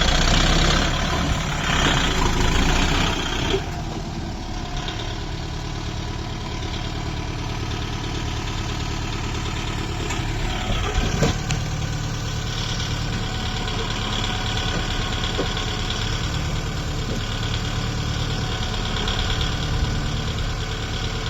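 Kubota MU 5502 tractor's four-cylinder diesel engine idling steadily, louder over the first few seconds, with a short knock about eleven seconds in.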